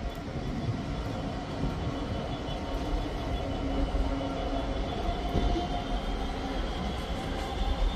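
A DB Cargo Class 66 diesel freight locomotive (EMD two-stroke V12) passing at a distance with a container train, a steady engine drone over the rumble of the wagons. A faint high whine rises slightly in the second half.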